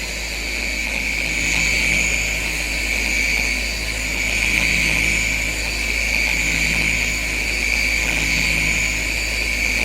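Electric machine polisher running on car paint with polish on the pad: a steady motor whine that slowly swells and eases as it is worked over the panel. This is the finishing pass on soft paint, meant to take out the light pad marring left by the heavier cut.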